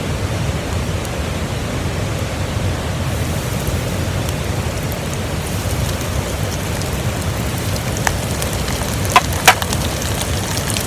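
Pieces of bluegill coated for karaage deep-frying in hot oil: a steady sizzle that grows brighter a few seconds in, with a few sharp pops near the end.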